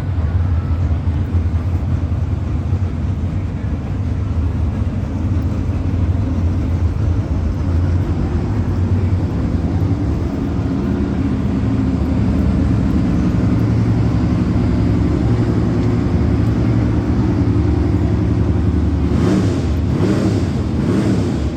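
Car engine running steadily with a low, even drone; near the end a pitch sweeps up and down as something passes.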